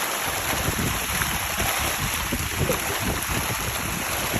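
A mass of farmed tilapia splashing and churning at the water's surface in a feeding frenzy, a dense, continuous sound of many irregular splashes.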